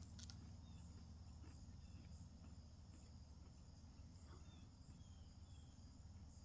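Near silence: room tone with a low steady hum and a faint, even high-pitched hiss, with a couple of faint clicks at the start.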